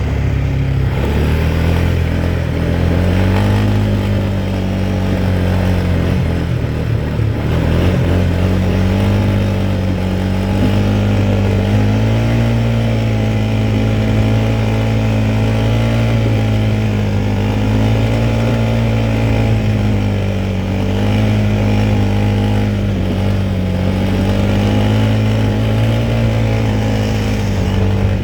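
Quad bike engine running while riding, its pitch rising and falling gently as the throttle changes.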